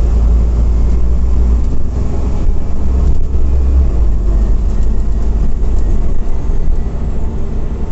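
Scania OmniCity CNG city bus heard from inside the passenger cabin while under way: a steady, loud low rumble of the engine and road noise, easing slightly about four seconds in.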